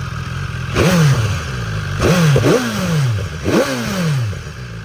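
2016 BMW S1000XR's 999cc inline-four engine idling, then blipped about four times. Each rev rises sharply and falls back toward idle.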